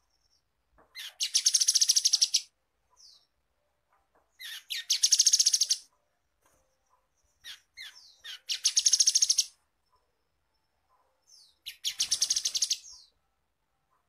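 Grey-headed canary-flycatcher singing: four bursts of very rapid, high trilled notes, each over a second long, about every three and a half seconds, with a few short single notes between them.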